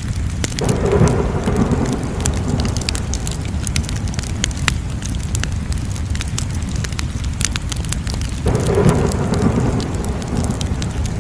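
Crackling wood fire: a steady low rumble of flames with frequent sharp pops and crackles. Twice, about half a second in and again about eight and a half seconds in, a louder rushing surge starts suddenly and lasts about two seconds.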